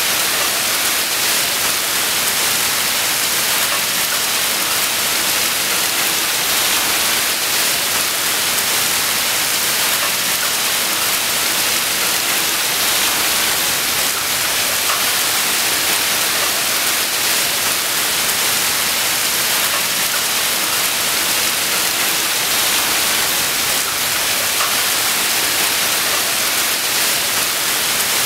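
Steady hiss of heavy rain pouring down onto pavement.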